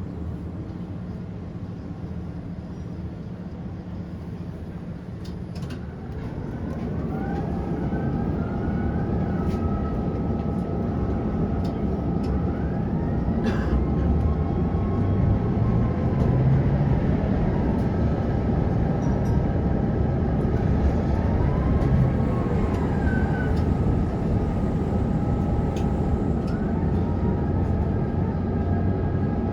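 Prague tram in motion, heard from on board: a low rumble of wheels on rails with a faint click or two. About six seconds in it grows louder, and its electric traction motors whine in several tones that glide up and down as it picks up and changes speed.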